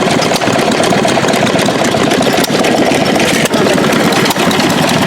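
1925 Stover Model K antique stationary engine running smoothly and steadily.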